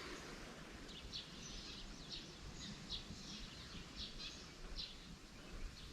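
Faint bird chirps: short, high notes repeated every half second or so, over low outdoor background noise.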